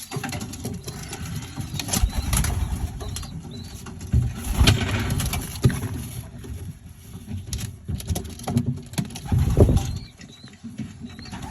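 Pigeons cooing in a loft, with a few knocks and bumps.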